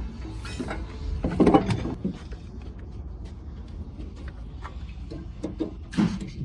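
Irregular knocks and clinks of metal tools and engine parts being handled, the loudest about a second and a half in and again near the end, over a steady low hum.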